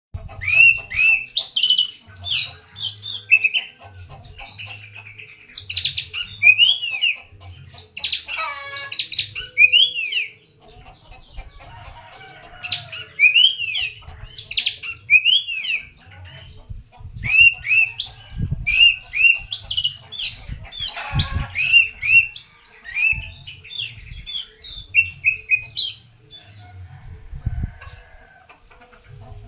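Oriental magpie-robin (kacer) singing vigorously: a varied run of loud whistled phrases, rising and falling notes and chattering trills in quick bursts with short pauses, thinning out near the end. An intermittent low rumble runs underneath.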